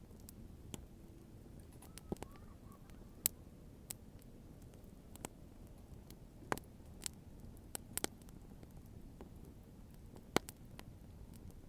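Bonfire crackling: irregular sharp pops and snaps of burning wood over a low steady rumble.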